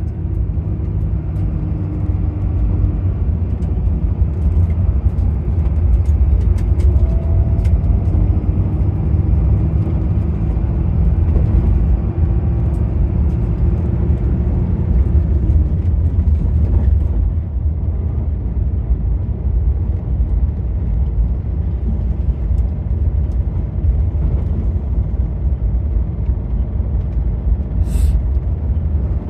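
Steady low rumble of a moving vehicle, with a brief hiss near the end.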